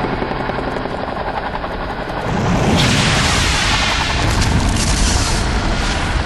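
Boeing 234 Chinook tandem-rotor helicopter's rotors thumping loudly, growing louder about two and a half seconds in.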